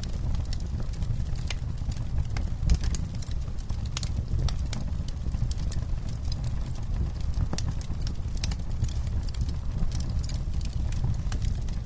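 Wood campfire crackling: irregular sharp snaps and pops, several a second, over a steady low rumble.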